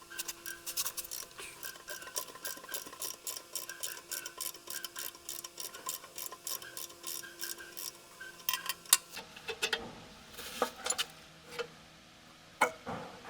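Quick, even metal-on-metal strokes, about three to four a second, over a faint steady hum, giving way after about eight seconds to a few scattered clinks and knocks of metal parts.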